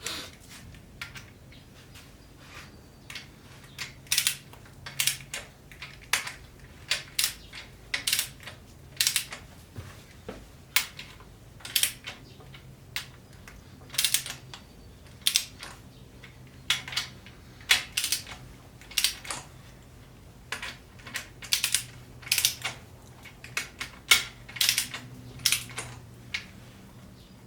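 Wrench ratcheting on the crankshaft main bearing cap bolts as they are torqued down: sharp single clicks, about one or two a second, in uneven runs.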